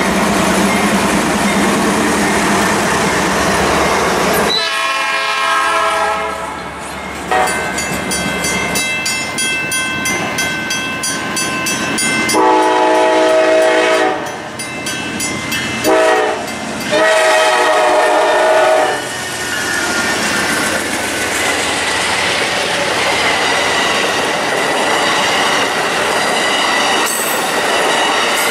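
Canadian Pacific GE AC4400CW diesel freight locomotives rumbling past close by. Then an Amtrak GE Genesis locomotive sounds its multi-note air horn for a grade crossing, several blasts ending with a short one and a long one, while the crossing bells ring. Its passenger cars then roll past with steady wheel clatter.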